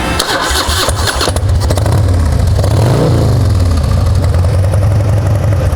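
A 2004 Harley-Davidson Dyna Wide Glide's carbureted Twin Cam 88 V-twin, fitted with aftermarket exhaust, starting up. The starter cranks briefly and the engine catches about a second and a half in. It revs once around three seconds in, then idles steadily, running well with no odd engine noise.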